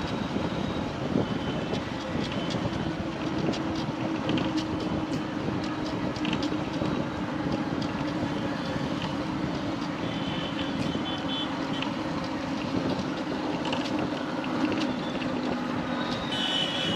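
Steady engine and road noise of a motorcycle on the move, heard from the rider's position, with brief high beeps about ten seconds in and again near the end.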